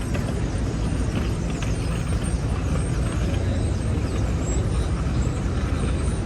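New York street traffic: a steady rumble of engines and tyres on a busy avenue.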